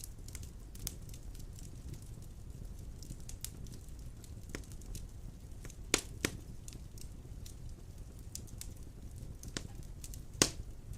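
Wood fire of large logs burning in a stone fireplace: a steady low rumble with scattered crackles and a few sharp pops, the loudest about six seconds in and near the end.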